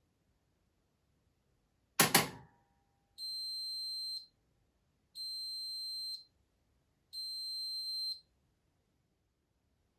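Privileg Sensation 952 S top-loading washing machine: a sharp double click, then its signal buzzer giving three long, high, steady beeps about two seconds apart, the machine's end-of-programme signal.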